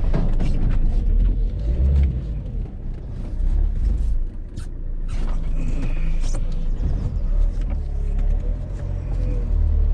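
Small van driving, heard from inside the cab: a steady low engine and road rumble, with scattered knocks and rattles.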